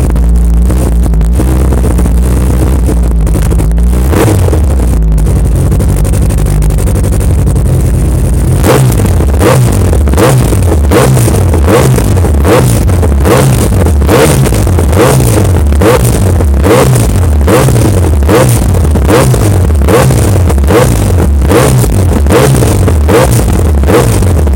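Yamaha YZF-R1's inline-four engine idling steadily, then, from about a third of the way in, revved over and over in quick throttle blips, a bit more than one a second, each rising and falling in pitch.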